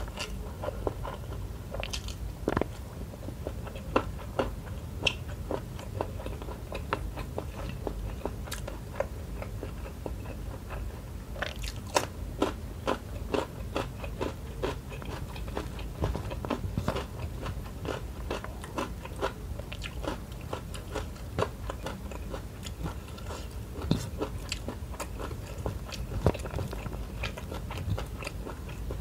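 Close-up eating sounds: a mouthful of rice, shrimp and petai (stink beans) in sambal being chewed, with many short, sharp, irregular mouth clicks over a steady low hum.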